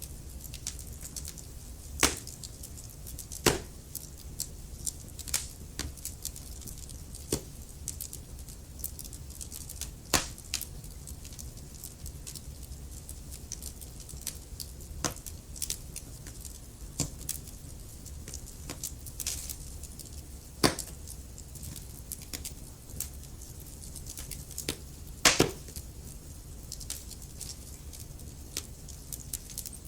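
Wood fire crackling in a fireplace: irregular sharp pops and snaps over a steady low rumble of burning, with a few louder pops spaced several seconds apart.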